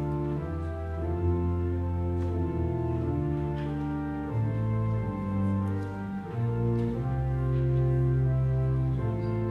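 Church pipe organ playing held chords that change every second or two over long, sustained pedal bass notes.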